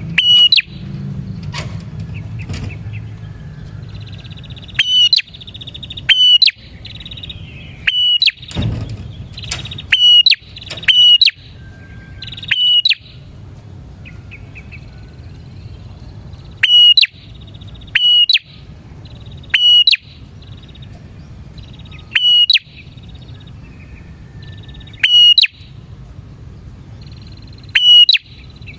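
Bar-winged prinia (prenjak) singing a lure song: loud, sharp, downward-swept notes repeated every one to three seconds, mixed with fast buzzy trills.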